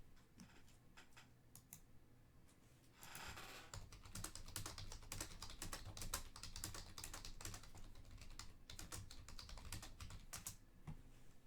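Faint, rapid run of light clicks and taps, with a short rustle just before it starts about three seconds in.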